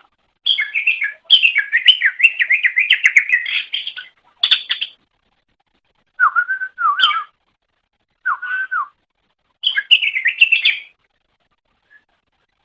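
Cucak ijo (green leafbird) singing: a long run of fast, varied warbling notes, then shorter lower whistled phrases after a pause, and another quick warbled burst near the end.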